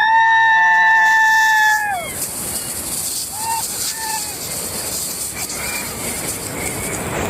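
A rider's long held yell for about two seconds, then a steady rush of wind and rain on the microphone as the roller coaster runs at speed, with a few faint shouts from other riders.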